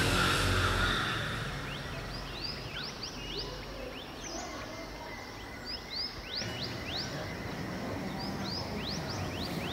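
Small birds chirping: a run of quick, short chirps that begins about two seconds in, over steady outdoor background noise.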